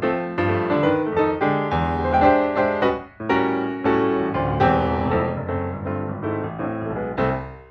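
Background music: piano playing a melody with many quickly struck notes, pausing briefly about three seconds in.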